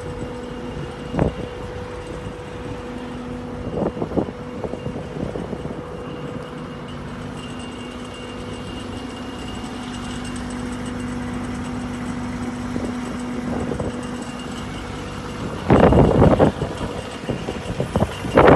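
An engine running steadily with a constant hum, with a few short knocks and a louder burst of knocking near the end.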